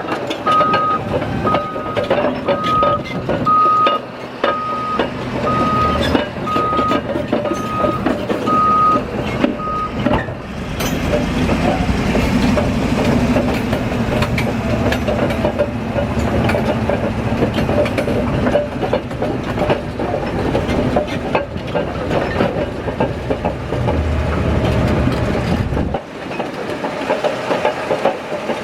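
Caterpillar D11R bulldozer's V8 diesel running with clanking steel tracks, its reversing alarm beeping about one and a half times a second for the first ten seconds while it backs up. The beeping then stops and the engine and tracks run on as it works the ripped sandstone, the deep engine note dropping away near the end.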